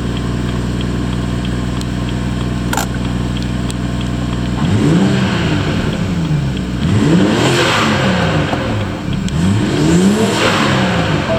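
BMW M140i's B58 3.0-litre turbocharged straight-six idling steadily, then revved three times, each rev rising and falling in pitch.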